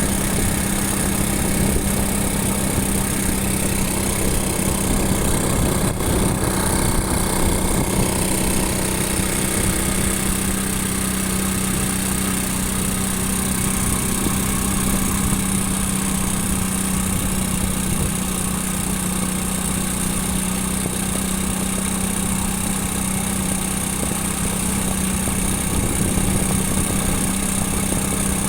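Motorcycle engine running steadily while riding: a constant hum under an even rush of noise.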